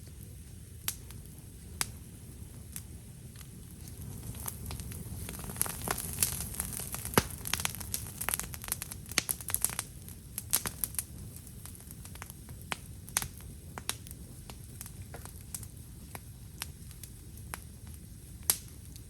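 Wood campfire crackling, with sharp pops and snaps that come thickest about five to ten seconds in, over a low steady rumble.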